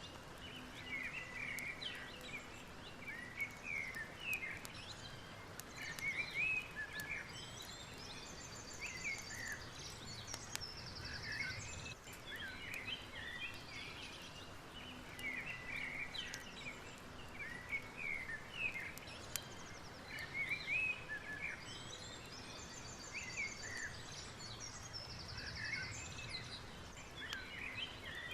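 Many birds chirping and singing, with short rapid trills now and then, over a steady hiss of background noise; the same stretch of birdsong repeats about every eleven seconds.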